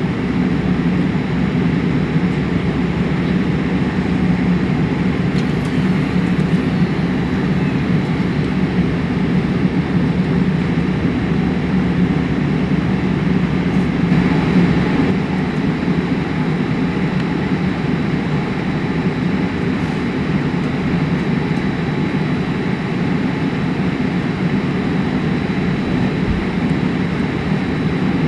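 Steady low rumble inside the cabin of a Boeing 787-8 on the ground, its Rolls-Royce Trent 1000 engines running at an even, low setting.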